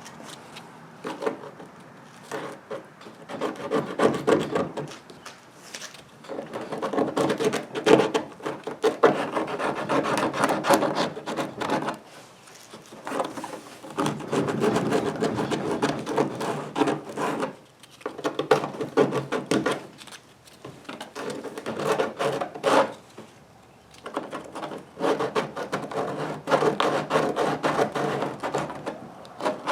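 Hand sanding of a kayak's plastic hull around a freshly cut rod-holder hole: runs of quick back-and-forth rubbing strokes broken by short pauses.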